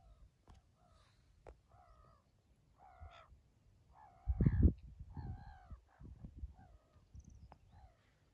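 Birds calling over and over with harsh, caw-like cries, about one call a second. Low rumbling thuds sound underneath, the loudest about halfway through.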